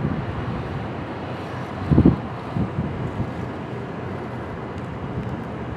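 Wind buffeting the microphone over a steady outdoor rumble, with a strong gust about two seconds in and a few smaller ones after it.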